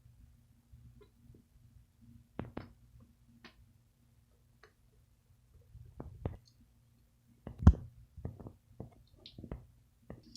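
Plastic toys being handled: scattered clicks and light knocks, irregular and some in quick pairs, with one louder knock about three-quarters of the way through.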